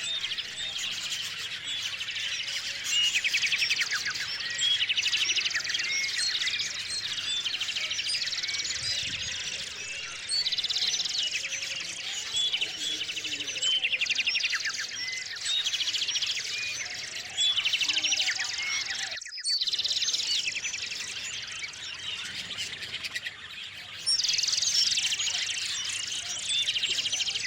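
Small songbirds chirping and trilling continuously, many calls overlapping, with louder bursts every couple of seconds and a brief break about two-thirds of the way through.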